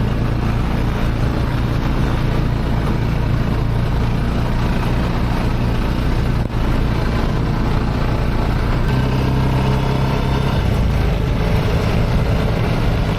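Off-road buggy engine running steadily while driving, its note changing slightly about nine seconds in.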